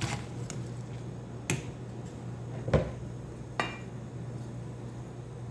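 A few sharp knocks and clicks of cookware being handled, four in all, the last with a brief metallic ring, over a steady low hum.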